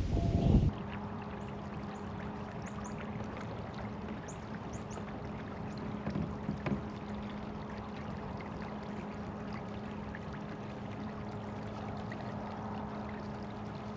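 Electric kayak motor running at a steady speed, a constant even hum over the sound of water, after a brief loud rumble of wind on the microphone in the first moment. Faint high chirps, like small birds, come through a few seconds in.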